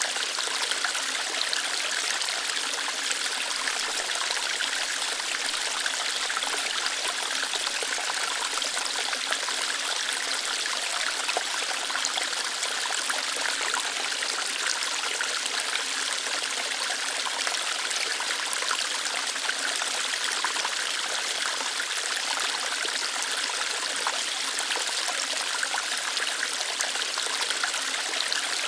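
Small waterfall of water flowing lightly over rocks, a steady, even rush and trickle with no change.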